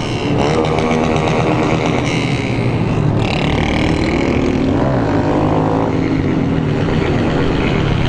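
Many motorcycle engines running together in a large group ride, several engine notes rising and falling at once as riders rev.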